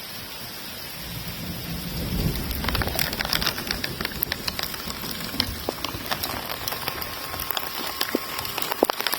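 Rain and hail striking a surface. A low rumble comes first, then about three seconds in the hard ticks of the impacts get dense and louder.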